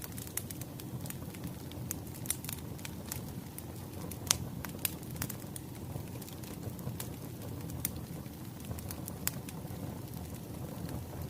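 Wood fire crackling: a steady low rumble of flames with irregular sharp pops and snaps from the burning logs.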